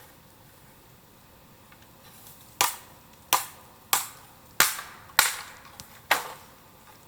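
Bamboo bursting in a bonfire: six sharp bangs, roughly one every two-thirds of a second, starting about two and a half seconds in. Each is the sealed section of a culm between its nodes splitting open as the air and moisture inside heat up.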